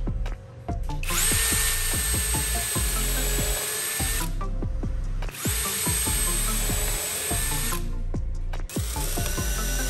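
An electric power tool motor runs in three spells of a few seconds each, with a steady high whine and brief pauses between, over background music.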